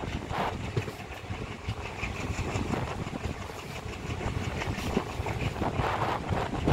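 Indian Railways passenger train running at speed, heard from inside a coach at an open door: the rumble of wheels on the rails with scattered clicks, and wind buffeting the microphone.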